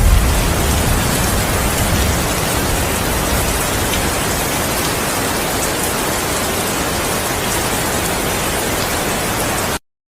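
Steady heavy rain falling, with the tail of a low thunder rumble dying away in the first second or so. Near the end the rain cuts out abruptly to silence.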